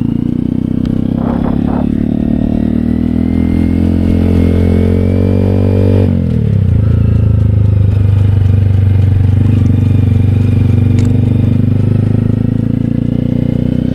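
Honda Grom's small single-cylinder engine running under way, rising slowly in pitch for about six seconds, then dropping sharply and holding steady.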